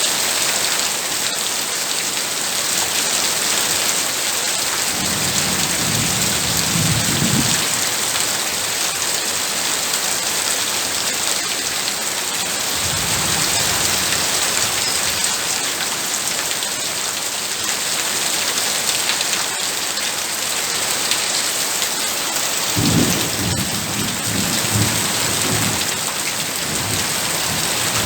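Heavy rain falling in a steady, dense hiss. Low rumbles of thunder come through it three times.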